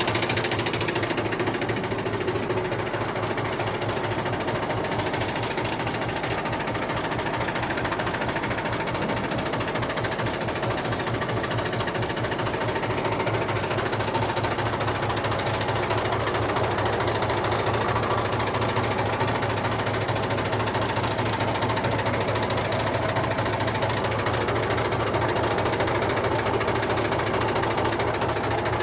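Mahindra 265 DI tractor's three-cylinder diesel engine running steadily, with a fast, even pulsing beat.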